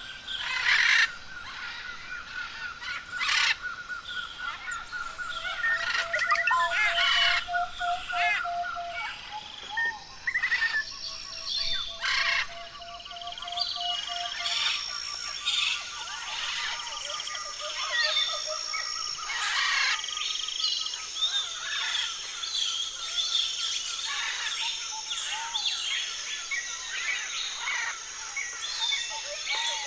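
Several forest birds calling over one another: long, evenly pulsed trills, sharp loud notes and chirps, with a steady high-pitched hum joining in about halfway.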